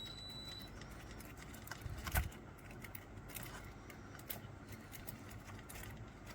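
Sparse small metallic clicks and taps as a dental matrix band is loosened from a tooth after an amalgam filling, with the loudest click about two seconds in.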